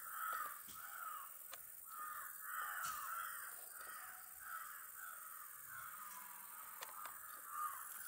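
A bird calling over and over: a run of short, arched calls, about two a second, with a few faint clicks among them.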